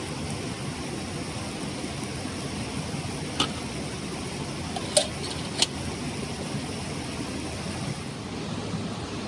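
Clear mountain stream flowing steadily over rocks, with three sharp clicks or knocks in the middle, the second the loudest.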